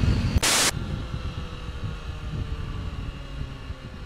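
Motorcycle engine running with wind rush and road rumble at the helmet microphone. About half a second in there is a short, loud burst of hiss.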